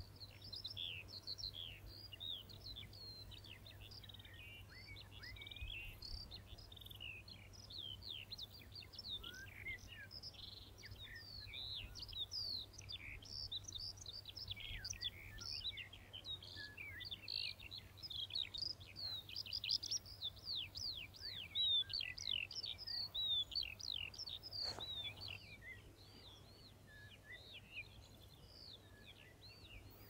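Songbirds chirping and singing in a busy stream of short, quickly sweeping high notes, thinning out in the last few seconds.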